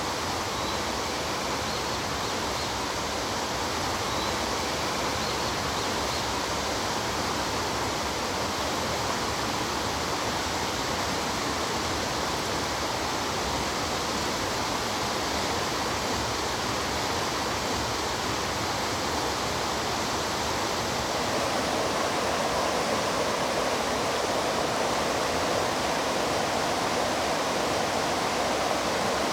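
Mountain stream flowing: a steady rush of running water that swells slightly about three quarters of the way through.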